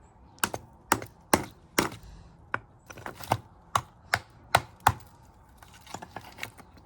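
A hammer chipping at a block of ice: a run of sharp knocks, about two a second, growing fainter near the end.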